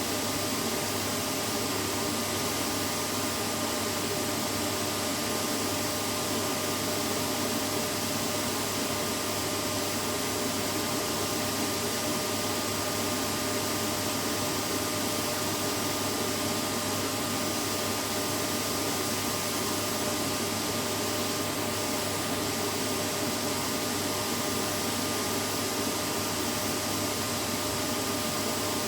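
Vacuum cleaner running steadily: an even rushing hiss with a constant motor hum, no change in pitch or level.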